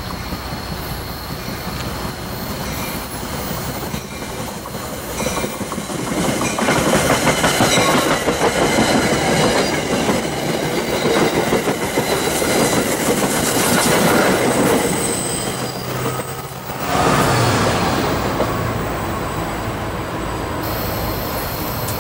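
New Jersey Transit commuter train of stainless-steel coaches passing close by. It grows louder about six seconds in and stays loud as the cars go past, with wheels clattering over the rails. There is a short dip about seventeen seconds in before the noise picks up again.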